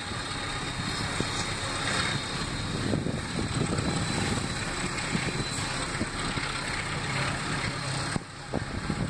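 Running noise of a moving passenger train heard from the upper deck of a double-deck coach: a steady rush and rumble of wheels on rail and passing air, dipping briefly about eight seconds in.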